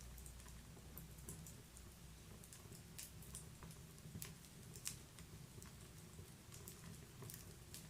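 Wood burning in a fireplace, crackling softly with scattered sharp pops and snaps over a faint low rumble. The loudest snap comes about five seconds in.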